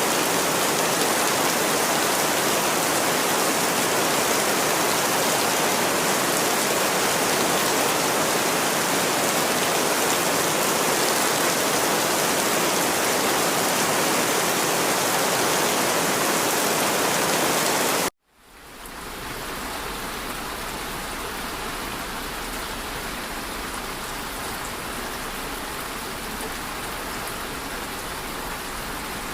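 Steady rain, an even dense patter. About eighteen seconds in it cuts out suddenly, and a quieter, duller rain sound fades back in and holds steady.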